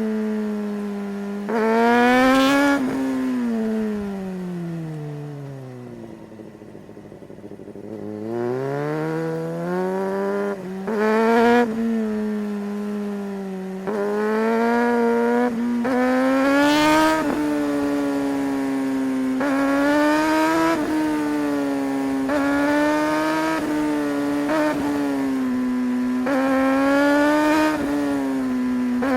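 2008 Suzuki GSR600's inline-four engine under a riding load, its revs climbing and dropping again and again. A few seconds in the throttle closes and the revs sink almost to idle, then it pulls hard again, followed by a run of quick rises and short dips in pitch.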